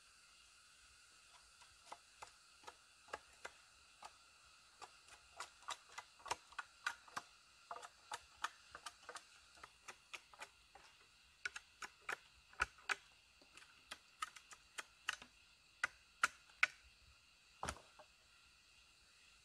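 An irregular run of sharp clicks and light taps, a few a second, growing more frequent and louder toward the end, over a faint steady high hum.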